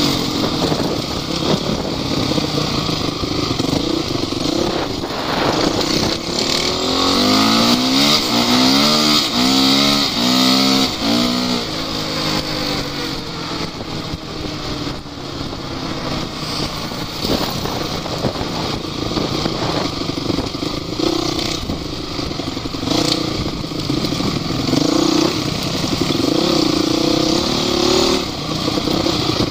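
Off-road vehicle engines running hard throughout. An engine note revs up and down between about 6 and 12 seconds in.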